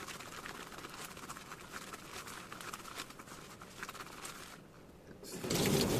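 Faint small clicks and rustles of hands handling things at a kitchen sink, then a tap is turned on near the end and water runs steadily into the sink, much louder.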